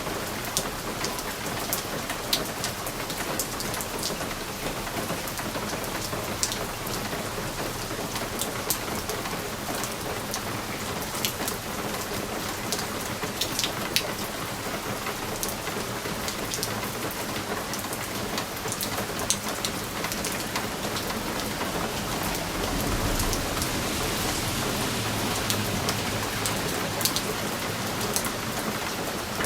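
Steady rain hissing against a window, with many sharp ticks of drops striking the glass. A low rumble swells about two-thirds of the way through and fades again.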